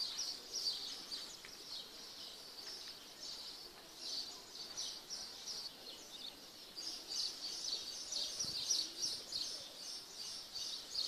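A chorus of small birds chirping, with many short high notes overlapping without a break.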